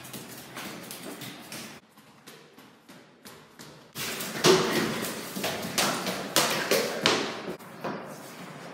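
Footsteps of children running up a wooden staircase: a quick string of footfalls, louder and busier from about four seconds in.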